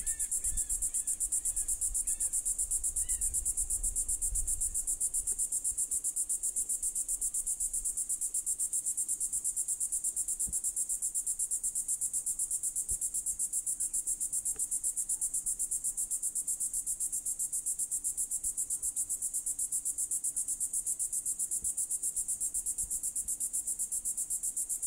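Cicadas buzzing in a steady, high-pitched drone that pulses rapidly. A bird chirps a few times in the first three seconds.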